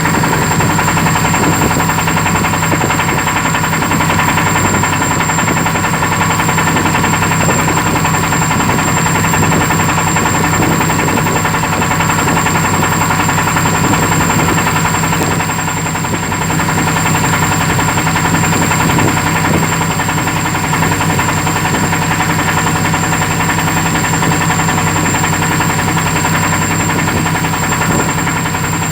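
A boat's engine running steadily at constant speed, a continuous drone with several fixed tones over a rough mechanical noise.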